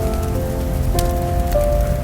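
Soft, slow background music of held notes that change every half second or so, over a steady patter of rain. A single sharp tick comes about halfway through.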